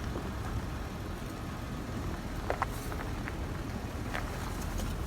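Truck driving off-road over rough ground: a steady low rumble with a few short knocks and rattles, the clearest about two and a half seconds in.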